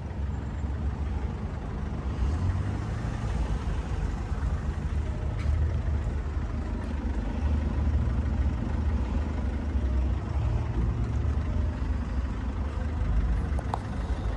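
Low, steady rumble of an idling vehicle engine.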